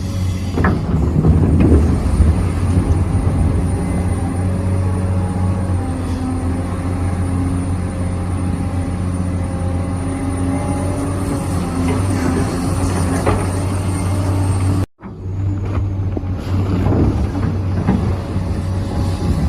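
Radio-controlled model excavator and truck working: a steady motor hum runs throughout with a few bouts of clattering, about a second in, near 13 s and again near the end. The sound cuts out briefly about 15 seconds in.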